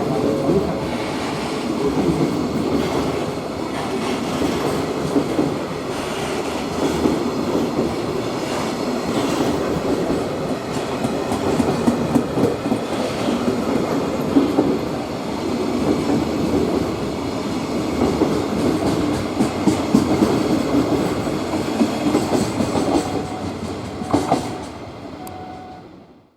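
Freight train rolling past, its wagons' wheels clattering over the rail joints in a steady run; the sound fades away near the end.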